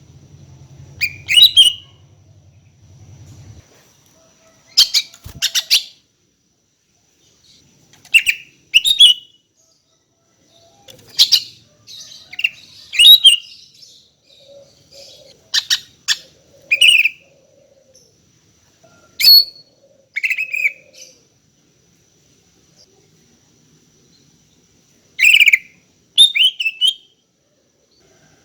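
Female greater green leafbird (cucak ijo) calling for a male: short, sharp chirps, mostly in clusters of two or three, repeated every couple of seconds, with a longer pause before a final cluster near the end.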